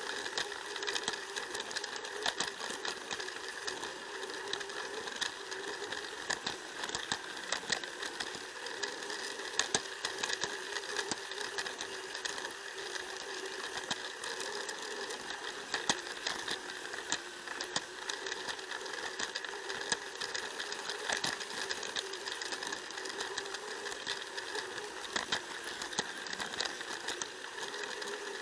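Battery-powered Plarail toy train running on plastic track, heard up close from the car it carries: a steady whine from its small motor and gears, with frequent irregular clicks as the wheels cross the track joints.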